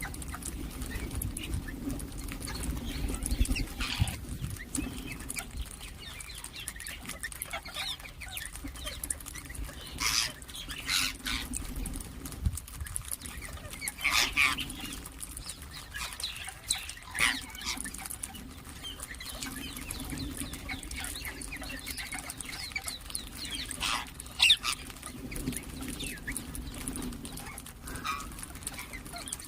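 Ring-necked parakeets calling: short, sharp screeching calls at irregular intervals, several seconds apart, over a faint low steady background sound.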